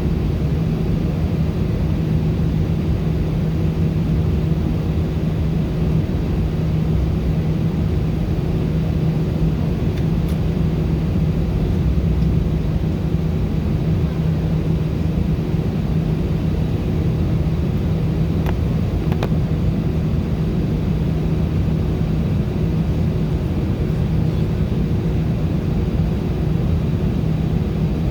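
Steady cabin drone of an Airbus A319 heard from inside the front of the cabin: engine and airflow noise with a constant low hum, unchanging throughout.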